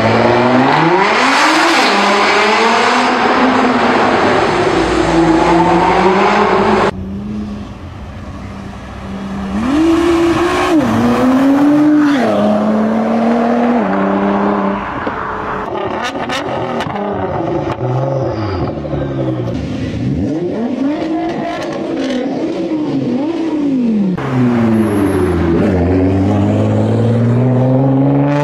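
Nissan GT-R (R35) twin-turbo V6 engines accelerating hard. The revs climb and drop repeatedly through several upshifts. The sound changes abruptly about seven seconds in to another car pulling away and passing.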